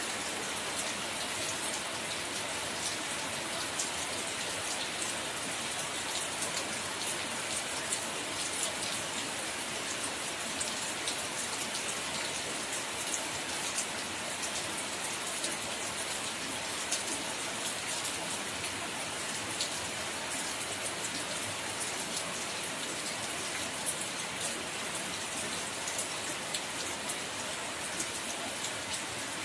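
Steady rain falling, an even hiss scattered with many small drop ticks throughout.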